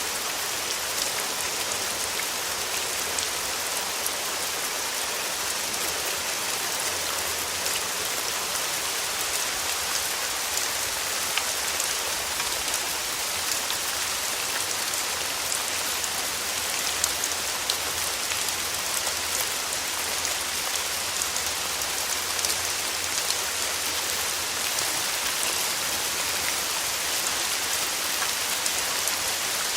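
Steady summer rain falling and pattering on a surface, a continuous even hiss with many small sharp drop ticks.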